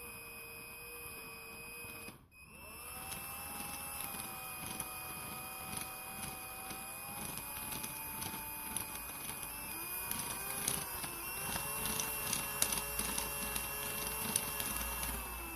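Electric drill spinning a 3D-printed plastic planetary gear bearing: the motor whines, stops briefly about two seconds in, then runs on, its pitch shifting as the speed changes. Clicking from the plastic gears grows busier in the second half.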